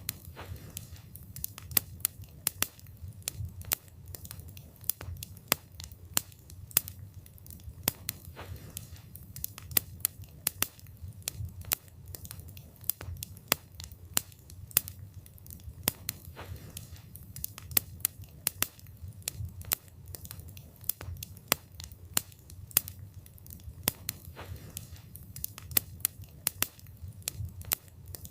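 Wood fire burning: frequent sharp, irregular crackles and pops from the burning wood over a low, steady rumble of the flames.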